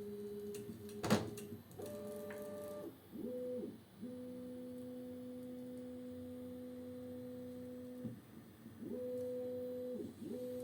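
Bambu Lab A1 3D printer's stepper motors humming in steady pitched tones as the axes move. Each move glides up in pitch at its start and down at its end, and one long tone holds for about four seconds in the middle. A single sharp click comes about a second in.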